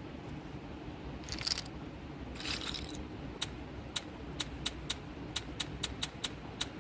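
Two short hissing swishes, then a quick, regular run of sharp clicks, about three to four a second, over a low hum.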